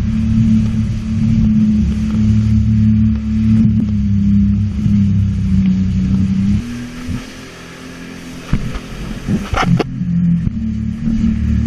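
Sea-Doo jet ski engine running steadily under throttle, easing off for a couple of seconds past the middle, then picking up again.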